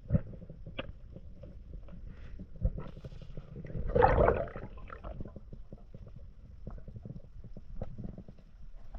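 Underwater sound picked up by a camera: a steady low water rumble with scattered clicks, and a louder gurgling burst lasting about a second, about four seconds in.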